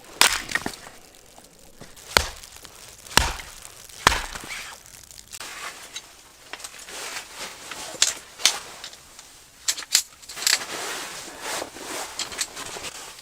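A series of sharp chopping strikes and cracks, about one a second at first. They are followed by a busier run of cracks and crunching, like something brittle being hacked and broken apart.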